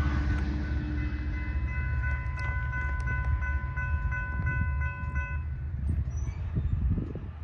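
A diesel-hauled Amtrak passenger train rumbling past on the rails, with a grade-crossing warning bell ringing in quick repeated dings that stop about five seconds in. A few louder knocks come near the end as the rumble begins to fade.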